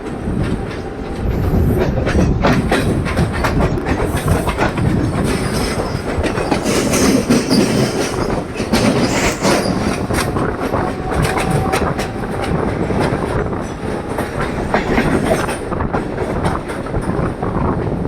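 Local commuter train running at speed, its wheels clattering over rail joints in a steady run of clicks.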